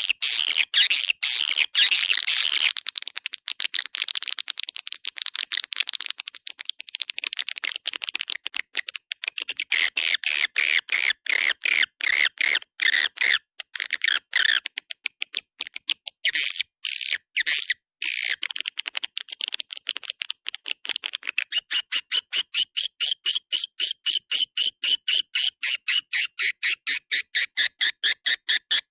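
Swiftlet lure call (suara panggil walet): dense, rapid twittering chirps of edible-nest swiftlets, the kind of track played to draw swiftlets into a swiftlet house. In the last third the twitter settles into an even, fast series of chirps.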